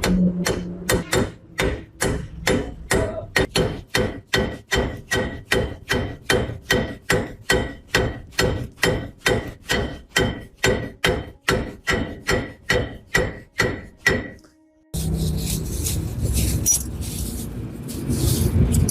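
Hammer striking metal in a steady rhythm, about three blows a second, each with a short ring. The blows stop about fourteen seconds in, and a softer, noisier clatter of work follows.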